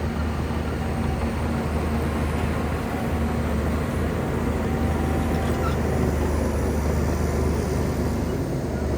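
Shantui bulldozer's diesel engine running steadily at a constant pitch.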